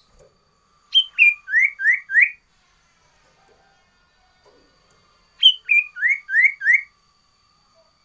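Sirtu, a cipoh (iora), singing: two loud whistled phrases about four and a half seconds apart, each a sharp high note and a slurred note followed by three quick rising whistles.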